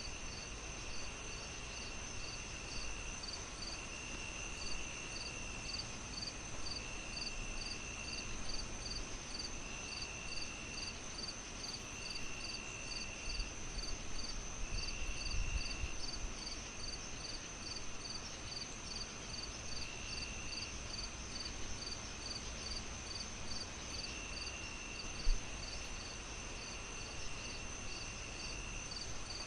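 A chorus of chirping insects: an even chirp repeating about two to three times a second, a steady high trill, and a lower trill that comes and goes in spells of about a second. Beneath it is a soft hiss of a fireplace, with one sharp crackle a few seconds before the end.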